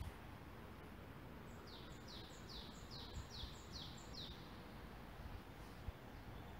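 A songbird singing a quick run of about seven high notes, each falling in pitch, over a steady low rumble, with a single sharp tap near the end.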